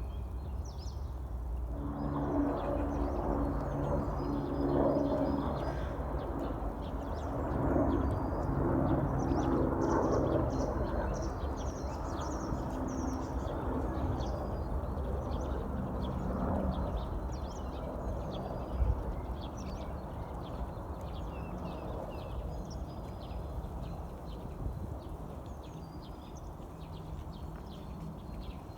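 Birds calling outdoors: lower-pitched calls come and go for the first half, over many short, high chirps of small birds throughout and a steady low background rumble.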